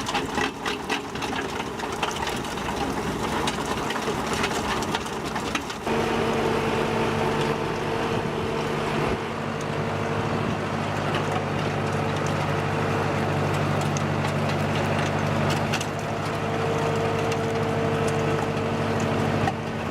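Tractor engine running steadily while pulling a compost turner, with crackling and rustling of material over the first six or so seconds; about six seconds in the sound changes abruptly to a steadier, even engine drone.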